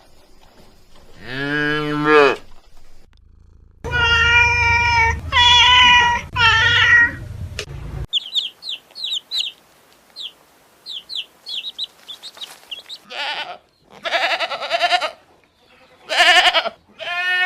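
A run of different animals' calls, one after another: a drawn-out call, then three long calls over a low rumble, then a string of short high chirps, then more calls near the end.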